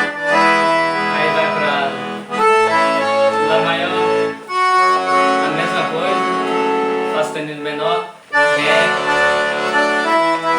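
Accordion (sanfona) playing a forró tune, a melody over held chords, in phrases broken by brief pauses.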